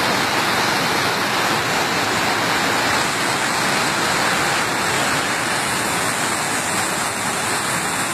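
Heavy rain falling: a steady, dense rushing noise.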